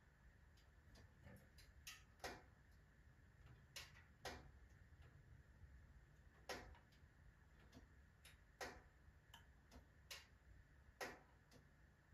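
Wood burning in a fireplace stove, crackling quietly with irregular sharp pops, one every second or two, and fainter ticks between them.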